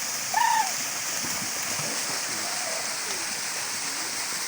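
Waterfall rushing steadily, with a short voice calling out about half a second in.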